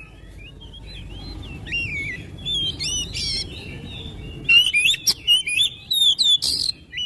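Oriental magpie-robin (kacer) singing: clear whistled notes that glide up and down. The phrases come sparsely at first, then turn into a fast, dense run of notes with sharp clicky calls about halfway through.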